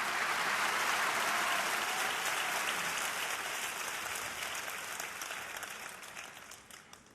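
Large audience applauding, strongest at first, then dying away toward the end.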